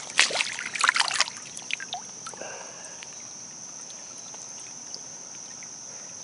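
A short run of splashes and scrapes in shallow water and gravel in the first second or so, with a few fainter ones after. Under it, a steady high-pitched insect drone continues throughout.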